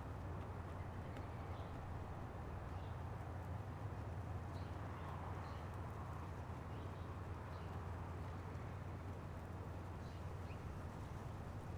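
Small birds giving scattered short, faint chirps, a dozen or so spread through, over a steady low rumble.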